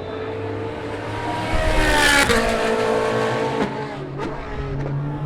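Race car engine at speed passing by, the note rising as it approaches and dropping in pitch as it goes past about two seconds in; other race car engines carry on after it.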